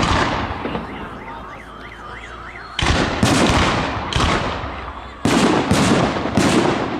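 Fireworks shells bursting in a volley: loud booms with crackling, echoing tails, one fading at the start and several more in quick succession from about three seconds in. In the lull before them, a car alarm warbles up and down.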